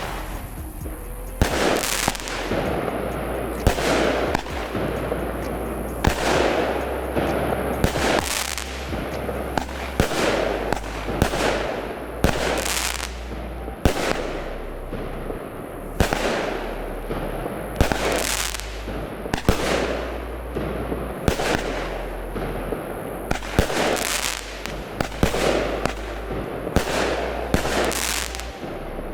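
Pyro King Wild Stallion, a 16-shot 200-gram consumer fireworks cake, firing its shots one after another, a sharp bang about every one to two seconds, each trailing off in a hissing smear.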